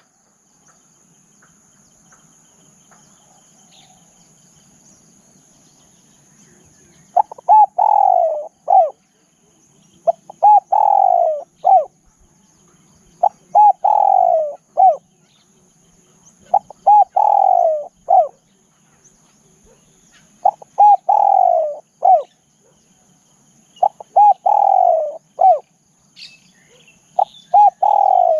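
Spotted dove cooing, starting about seven seconds in. It repeats the same phrase seven times, roughly every three and a half seconds: a couple of short notes, a long falling coo, then a short closing note. A faint steady high insect whine runs underneath.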